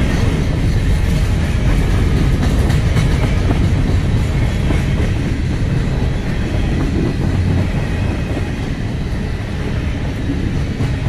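Freight train of covered hopper cars rolling past close by: a steady rumble of steel wheels on the rails, with sharp clicks of wheels over rail joints, more of them in the first few seconds.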